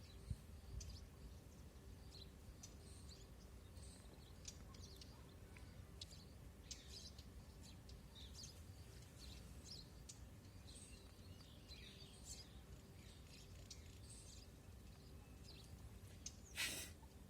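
Faint outdoor ambience: scattered short bird chirps over a low, steady rumble of background noise, with one brief, louder call near the end.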